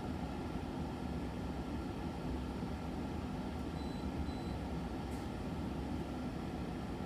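Steady low background hum and rumble of room noise. A faint, brief high tone comes about four seconds in, and a faint click about five seconds in.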